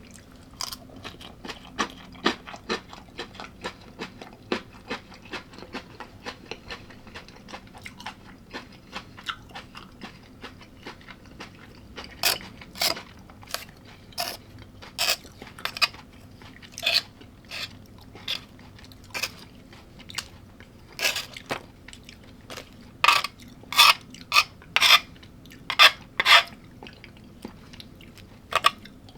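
A person biting and chewing crunchy food close to the microphone: many sharp, irregular crunches, sparse at first and louder and closer together in the second half.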